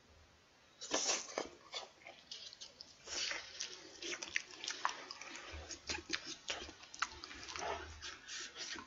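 Close-miked mouth sounds of someone eating a piece of potato from a noodle soup: irregular wet clicks and smacks of chewing, starting about a second in.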